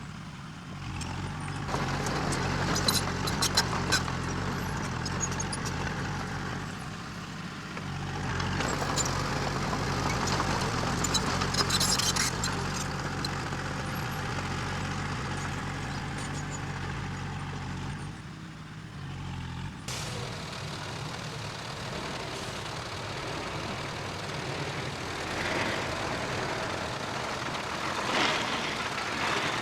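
Diesel engines of earth-moving machinery running steadily, with bursts of metallic clanking and scraping. The sound changes abruptly about two-thirds of the way through.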